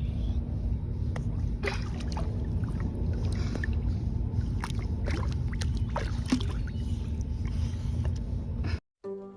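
Steady low water-and-air rumble with scattered light splashes and clicks as a dog swims in open water; it cuts off suddenly near the end.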